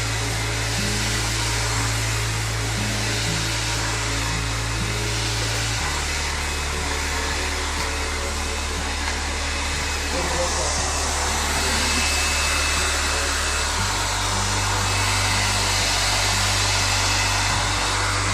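Handheld hair dryer blowing steadily on a client's hair, with background music underneath.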